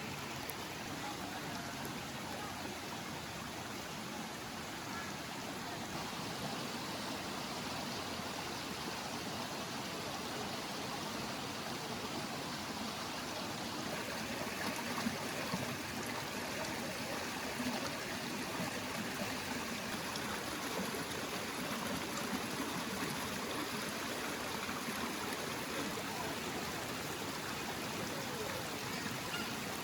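Stream water running steadily, with a few brief louder sounds about halfway through.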